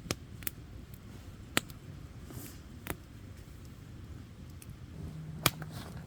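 Wood campfire crackling: a low steady rustle of flame with a handful of sharp, irregular pops, the loudest about a second and a half in and again near the end.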